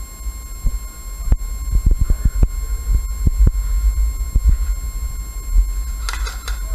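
Irregular low thumps and rumble on the microphone, typical of handling and footsteps on a body-worn camera, with a faint steady high-pitched electronic whine underneath.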